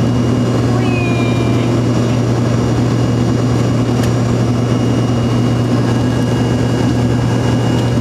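Steady drone of an airliner's cabin in flight: engine and airflow noise with a strong low hum, unchanging throughout.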